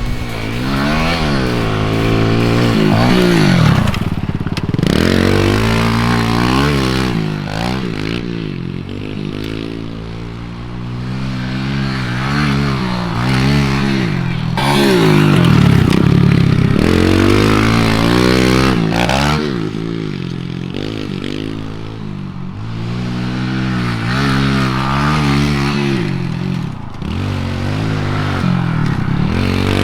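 Kawasaki KLX 110 pit bike's single-cylinder four-stroke engine revving as it is ridden around a dirt track. The pitch climbs and falls again and again as the throttle opens and shuts, with brief drops every few seconds.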